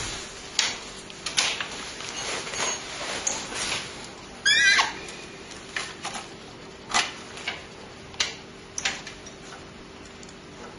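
Hands connecting cables and parts inside a desktop PC: scattered plastic and metal clicks and knocks, with one loud short squeak that wavers in pitch a little before the middle.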